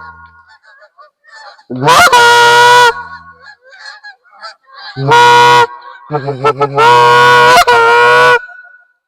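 Canada goose call blown close by: loud long honks that rise and then hold, a quick string of short clucking notes about six seconds in, then a last long honk. Faint calls come from further off between the honks.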